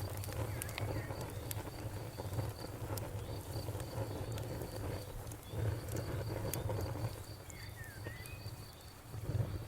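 Campfire crackling, with scattered sharp pops over a low, dense rumble of burning. A cricket chirps in a steady, even pulse throughout, and a few short gliding chirps come about a second in and again near eight seconds.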